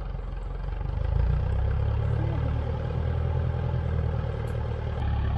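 An engine running steadily with a low hum, getting louder about a second in and then holding level.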